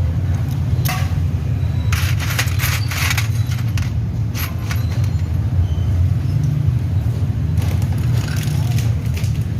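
Scooter engine running steadily, with scattered clicks and taps over it.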